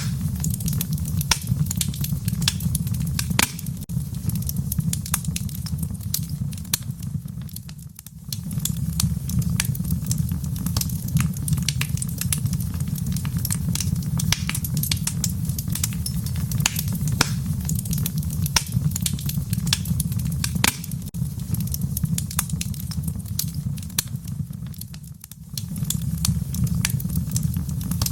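Fire in a fireplace crackling, with frequent sharp pops and snaps over a steady low rumble. The rumble fades out briefly twice, about eight seconds in and again near the end, while the crackling carries on.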